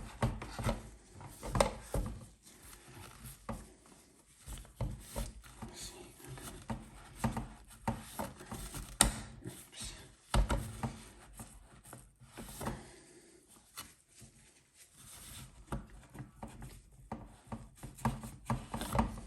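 A cloth scrubbing and wiping inside a Miele W1 washing machine's detergent drawer: irregular rubbing strokes with frequent small knocks against the drawer.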